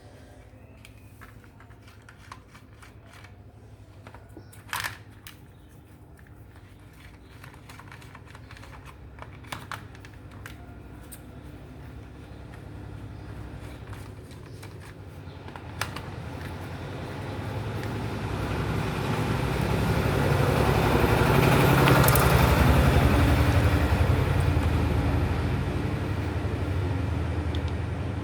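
Scattered small clicks and taps of parts being handled during the disassembly of a mini fly-repellent fan. From about halfway a loud low rumble swells up, peaks, and eases off near the end.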